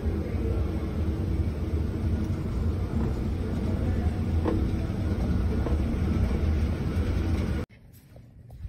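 Steady low rumble of a vehicle in motion, stopping abruptly near the end.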